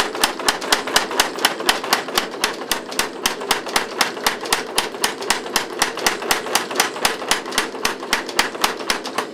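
A 25 lb Little Giant trip hammer pounding a hot 5160 spring steel knife blank in a fast, even run of blows, about five a second, drawing out a taper. The blows stop at the very end, and a steady hum runs underneath.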